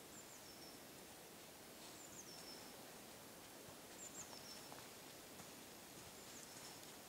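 A small bird calling in snowy conifer forest: a thin, high note that slides down in pitch, repeated four times about two seconds apart, over a faint steady hiss.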